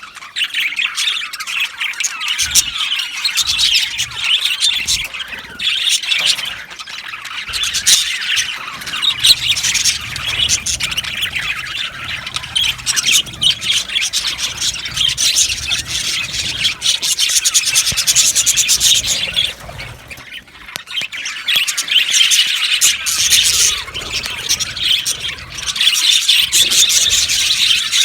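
A flock of budgerigars chattering and chirping together in a dense, continuous warble, with a brief lull about twenty seconds in.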